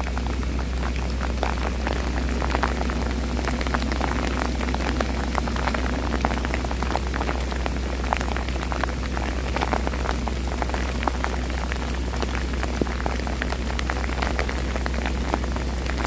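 Heavy rain falling steadily, with many sharp clicks of drops striking close to the microphone, over a steady low hum.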